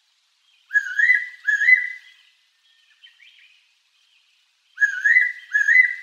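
Fairy pitta singing its two-note whistled song, given twice about four seconds apart, each clear note rising then falling. Faint chirps come between the two phrases.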